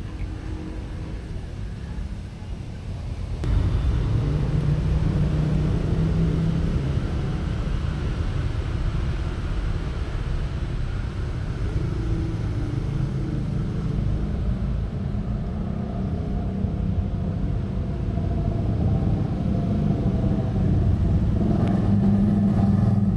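A steady low rumble that grows louder about three and a half seconds in and stays up.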